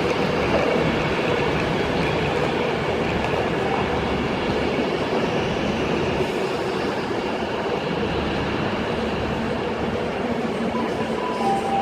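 Class 390 Pendolino electric train moving at the platform: steady running noise with a faint hum.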